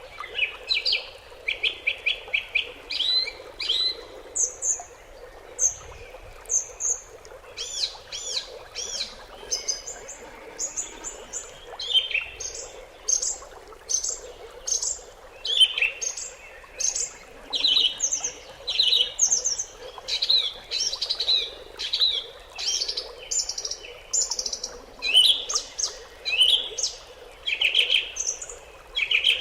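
Several small birds chirping and trilling continuously, short high calls overlapping one another with barely a pause, over a faint steady background hiss.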